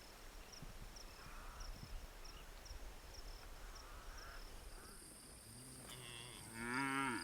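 Cattle mooing: low, drawn-out calls begin past the middle, the loudest one rising and falling just before the end. Before that, faint insect chirping repeats at a steady two or three a second.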